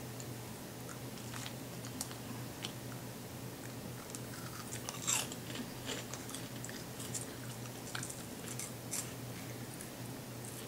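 Faint crunching and chewing of a small, crunchy, chip-like Japanese snack, with scattered sharp crunches.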